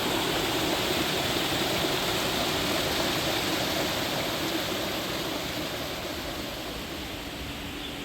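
Rushing water from a stream or small waterfall, a steady even rush that grows a little softer over the last few seconds.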